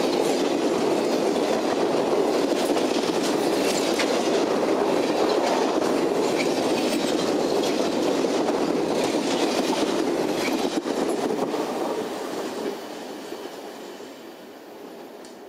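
Passenger train cars rolling past, steel wheels clattering over the rail joints with a few sharp clicks. About twelve seconds in the sound drops away and fades as the last car goes by.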